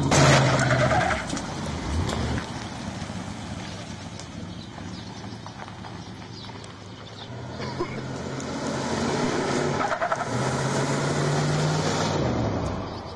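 Car engine running hard as the car takes off, then fading away over the next couple of seconds. From about halfway it grows louder again, holds steady for a few seconds, and drops away shortly before the end.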